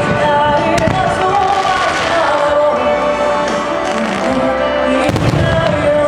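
Music with fireworks going off over it: sharp cracks about a second in and a heavy boom about five seconds in.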